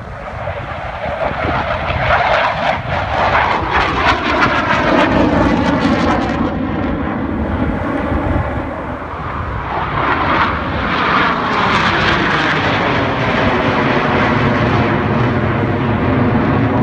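Aircraft flying past low and loud, its roar sweeping in pitch as it passes. It swells twice, about two seconds in and again about ten seconds in, then stays strong.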